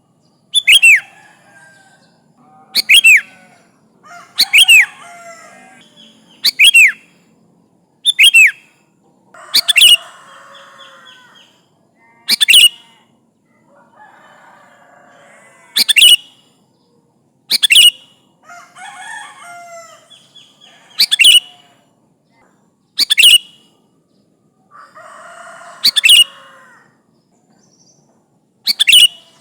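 Sooty-headed bulbul (kutilang) singing: short, loud, sharp phrases with quick sweeps in pitch, repeated about every two seconds, with softer chattering between them. This is a bird in full song, calling out to rivals.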